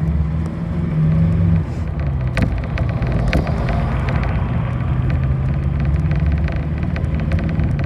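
Bus engine running, heard from inside the passenger cabin, its note dropping about a second and a half in, with a few knocks and light rattling from the body.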